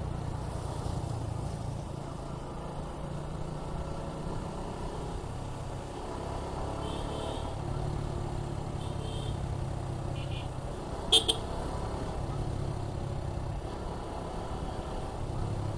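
Suzuki Gixxer 155 single-cylinder engine running steadily while riding, with road noise. About 11 seconds in, a vehicle horn gives one short, loud toot.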